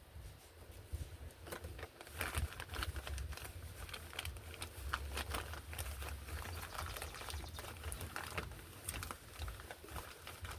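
Irregular light clicks and taps, many per second, over a low uneven rumble.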